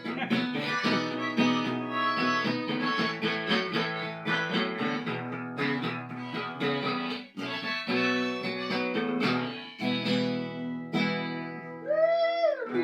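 Acoustic guitar strummed and picked with a harmonica playing along. Near the end, a few notes bend up and back down in pitch.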